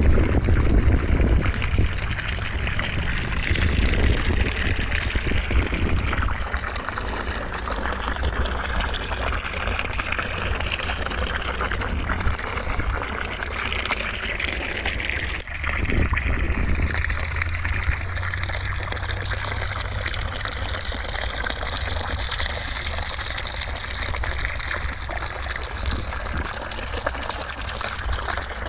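Steady, loud rushing white noise with a gushing, water-like character and slowly shifting tone. There is a brief dip in level about fifteen seconds in.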